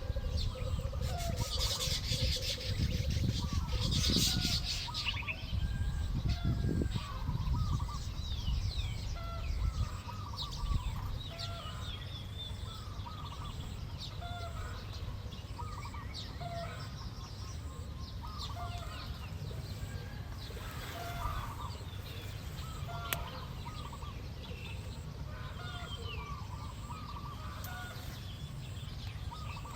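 Chickens clucking and small birds chirping in short repeated notes. There is a low rumble with rustling bursts over the first several seconds.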